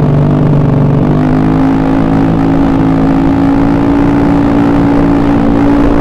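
Rebuilt Honda BeAT carburettor scooter's single-cylinder engine running; its pitch shifts in the first second, then holds steady.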